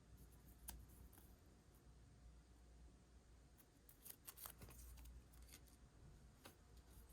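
Faint snips of scissors cutting paper: a single snip a little under a second in, a quick run of snips around four to five seconds in, and one more near the end.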